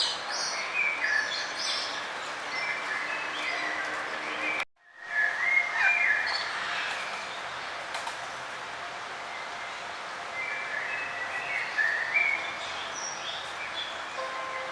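Songbirds chirping and trilling in short phrases over a steady outdoor background hiss. About a third of the way in, the sound cuts out completely for a moment, then the chirping resumes.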